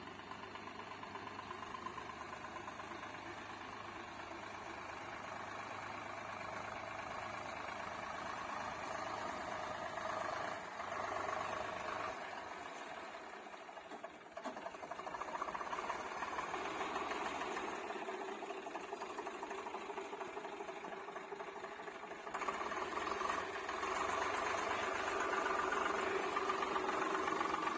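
Tractor's diesel engine running steadily, growing louder in steps, most clearly about two-thirds of the way in.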